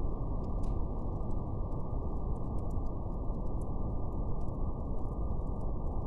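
Steady, deep brown noise with the faint, scattered crackle of a fire over it.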